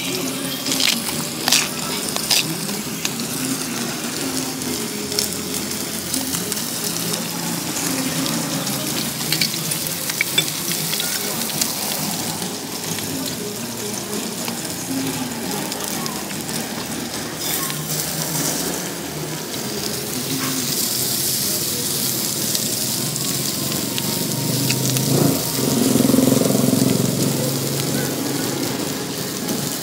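Food frying in hot oil, a steady sizzle, with a few sharp utensil clicks about a second in.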